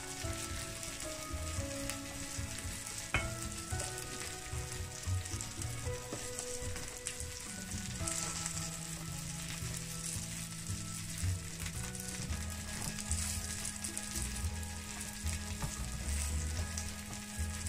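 Chicken kebab patties, onion rings and mushrooms sizzling steadily on a hot ridged grill pan, with a sharp tap about three seconds in as a piece is set down.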